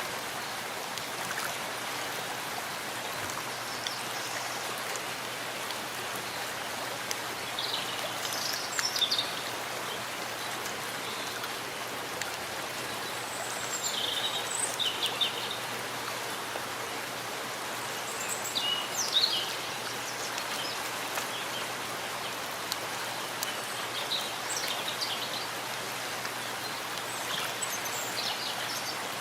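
Steady rain falling in a forest, an even hiss of drops on leaves and ground. A bird calls a few times in short chirps through it.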